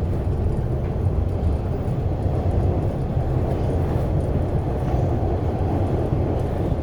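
Steady low rumble inside an MBTA Orange Line subway car as the train runs.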